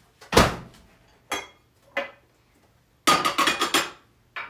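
Glass dishes and kitchen items being moved about on a counter: a heavy knock, two lighter clinks, then a quick clatter of glass on glass and a last click.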